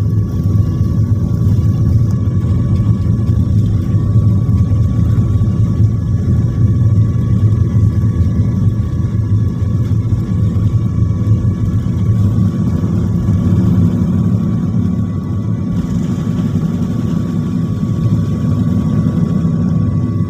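Airliner engine noise heard inside the passenger cabin: a steady, loud low rumble with a thin steady whine above it.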